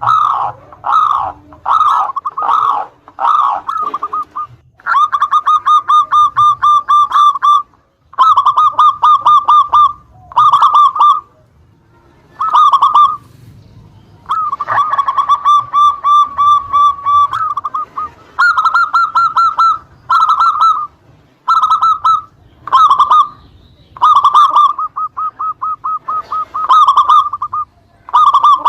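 Zebra dove (perkutut) cooing in repeated phrases of rapid, trilled notes. Each phrase lasts from about half a second to three seconds, with short pauses between.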